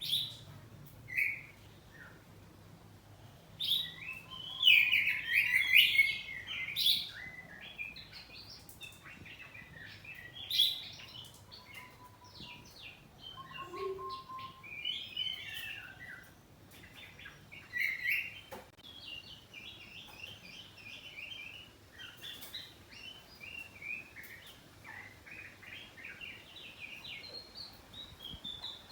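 Oriental magpie-robin (kacer) singing a varied string of chirps and whistled phrases. The loudest bursts come a few seconds in, followed by a long run of quick phrases in the second half.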